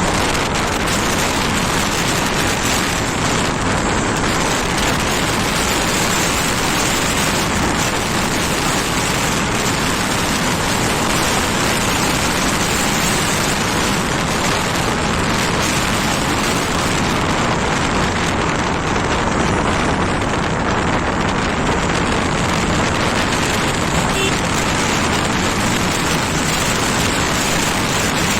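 Steady loud rush of wind and road noise while riding a scooter, with no clear engine note.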